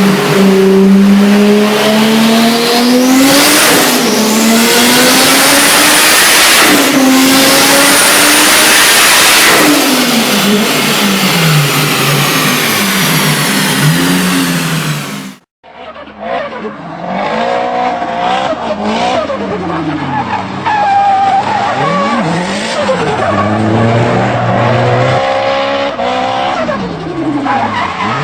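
Turbocharged Nissan Silvia engine revving up and down over and over under hard driving, with tyre squeal through the first half. The sound cuts off about halfway through, and a second Silvia comes in, its engine pitch swinging rapidly up and down.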